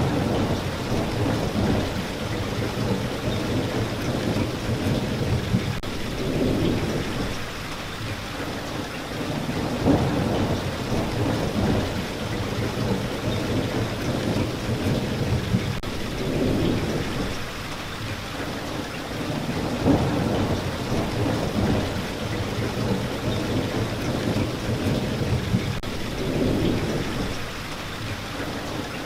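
Steady rain falling, with low rolling thunder swelling and fading every few seconds and a few sharp single cracks among the drops.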